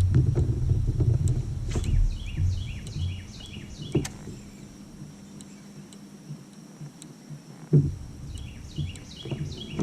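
Outdoor lake ambience: low wind rumble on the microphone that dies away after a few seconds, a few sharp knocks, and two runs of short, quickly repeated falling chirps from a bird.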